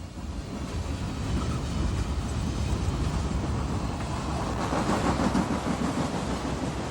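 Diesel freight locomotives pulling a cut of cars: a steady rumble of engines and rolling wheels that swells a little about five seconds in.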